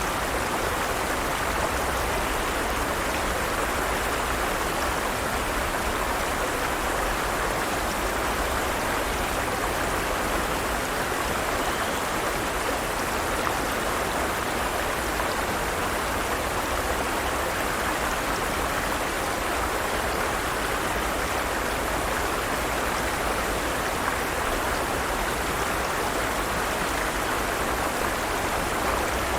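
A forest stream flowing steadily over rocks, an even rushing of water with no change in level.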